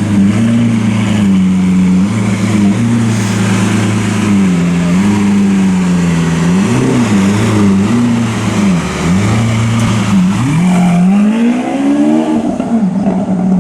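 Lamborghini Aventador's V12 running through its exhaust, blipped several times so the pitch rises and falls, with a longer climbing rev about ten seconds in.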